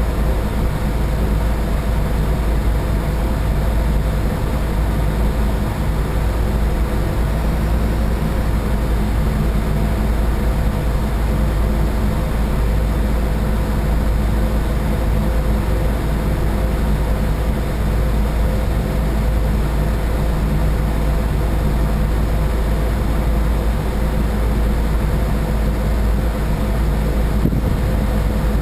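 Boat's engine running steadily under way: an even, unbroken low drone with a steady hum and a hiss of water and wind over it.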